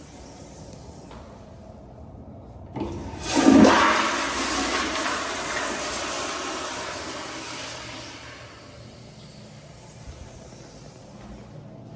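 Toilet flushing: a short click about three seconds in, then a loud rush of water that peaks at once and fades over about five seconds.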